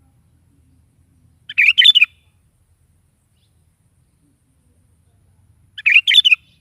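Sooty-headed bulbul (kutilang) singing two short phrases, each about half a second long and some four seconds apart.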